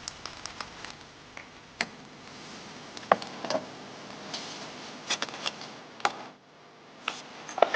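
Light clicks and knocks of wooden boards being handled and fitted together into a folding camp table, scattered and irregular, over a steady background hiss.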